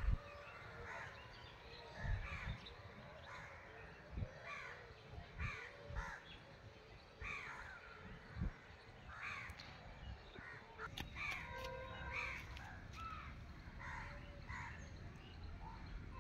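Birds calling outdoors: short, harsh, repeated calls about once a second, with a few low thuds on the microphone.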